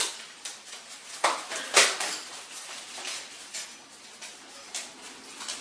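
Clicking and clattering of hard objects being handled, like dishes or utensils, with two louder knocks about a second and a half in.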